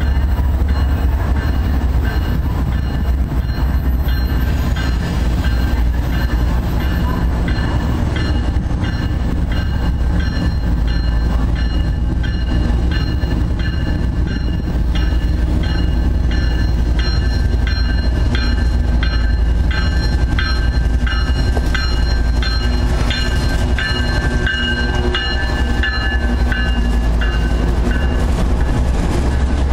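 Union Pacific freight train led by GE ES44AC diesel locomotives rolling past close by, with a loud steady low rumble of engines and wheels on the rails. From about halfway through, as the boxcars pass, a high metallic squeal from the wheels rises and falls, strongest near the end.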